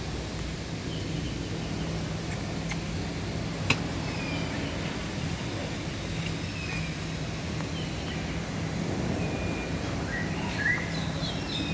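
Scattered short chirping bird calls over a steady low hum and background noise, with one sharp click a little under four seconds in and a brief cluster of louder chirps near the end.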